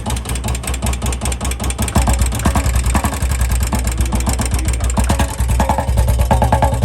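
Royal Enfield Bullet UCE single-cylinder engine running with a fast, even ticking from inside the engine. The mechanic puts the noise down to the crankshaft, which needs crank work, and not to hydraulic tappets, head, rockers or cams.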